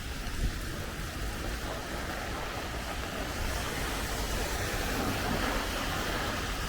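Steady rain falling, with wind buffeting the microphone in a low, gusty rumble.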